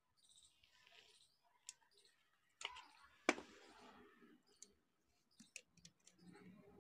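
Faint clicks and scrapes of small parts being handled as the spring is lifted and a carbon brush is pried out of an angle grinder's brush holder, with two sharper clicks about three seconds in.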